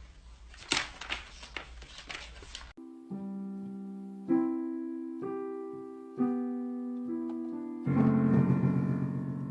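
A few sharp knocks and rustling noises, then an abrupt change about three seconds in to piano or electric keyboard music. The music is slow sustained chords, struck about once a second, the fullest chord near the end.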